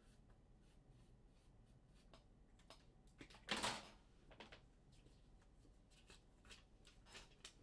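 Quiet handling of cards and paper on a table: faint scattered clicks and light rustles, with one brief louder rustle about halfway through.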